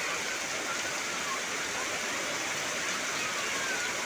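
Heavy rain falling steadily on trees and vegetation, an even hiss, with a few faint, short, high whistled chirps.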